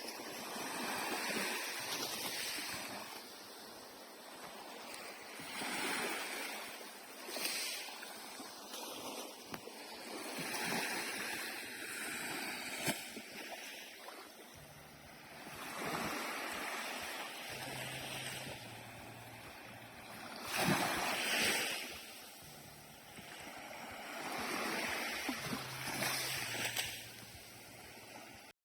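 Sea waves washing onto the shore, the surf swelling and falling back every four to five seconds.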